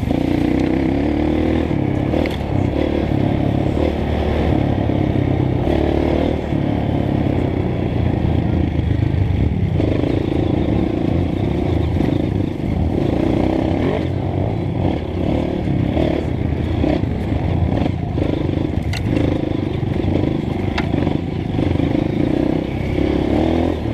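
Honda CRF230F trail bike's single-cylinder four-stroke engine running under load on a dirt trail, its note rising and falling with the throttle. Clattering and knocks come from the bike over rough ground.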